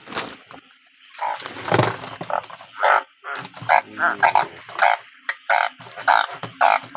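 A chorus of frogs calling in heavy rain: short croaks from several frogs, overlapping and repeating a couple of times a second. One louder, brief noise comes about two seconds in.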